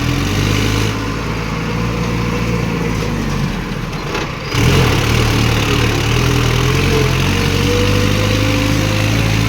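Mahindra Arjun 555 tractor's diesel engine running steadily while hauling a heavily loaded trolley. A little past halfway the engine note drops briefly, then picks up and runs louder.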